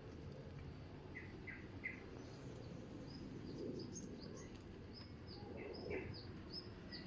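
Small birds chirping faintly: three short chirps about a second in, then a run of quick, high chirps repeating about twice a second, over a low steady background hum.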